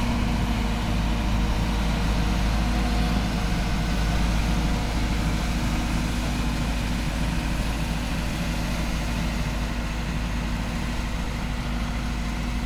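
Snowplow's heavy engine running steadily at work, a continuous low hum.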